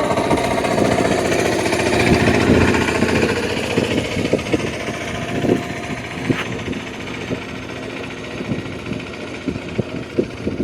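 Passenger train running along the track: a steady rumble and rattle with a drone in the first seconds. Irregular sharp clicks and knocks from the wheels over rail joints grow more frequent as the sound eases off through the second half.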